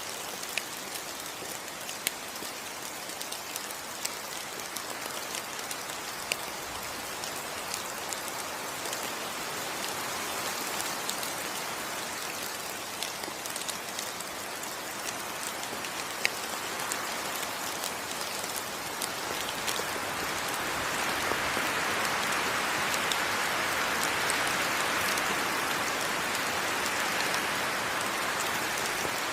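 Steady rain falling on foliage, an even hiss with scattered sharper drop ticks; the rain grows heavier about two-thirds of the way through.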